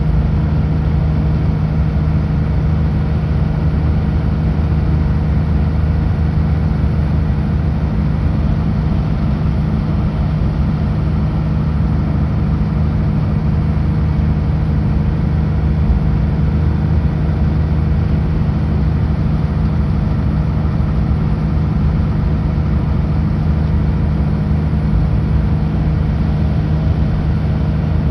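Kenworth W900L truck's diesel engine running steadily at a constant speed while driving on the highway, with a low, even drone over road and tyre noise.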